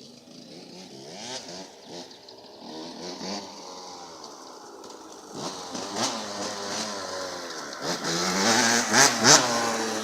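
Small two-stroke dirt bike engine, a KTM 65, revving up and down repeatedly under throttle blips, as when lifting the front wheel for wheelies. It gets louder, peaking about nine seconds in.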